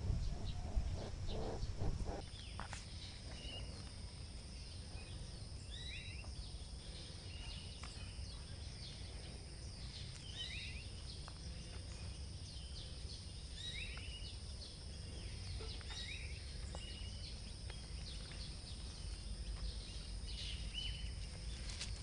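Outdoor ambience of a bird calling, short chirps that come back every few seconds, over a steady background hiss and a faint high even tone.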